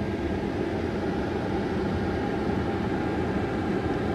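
Steady road and engine noise inside a moving vehicle, a low even rumble with no sudden events.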